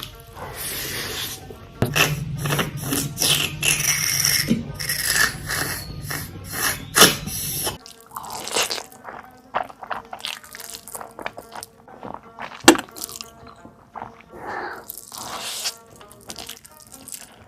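Close-miked eating sounds: crunching, chewing and wet mouth noises from big bites of food, in quick uneven bursts, with one sharp crack about two-thirds of the way through. Soft background music runs underneath.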